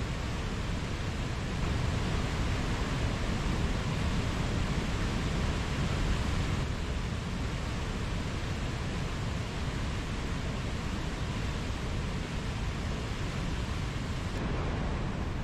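Mountain stream rushing steadily over rocks: a continuous, even wash of water noise.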